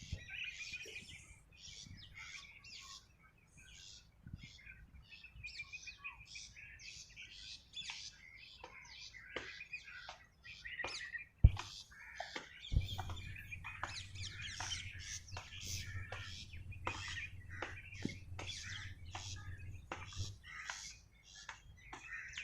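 Small songbirds chirping and calling in quick, overlapping short notes. About halfway through there is a single sharp click, the loudest sound, followed by a low steady hum for several seconds.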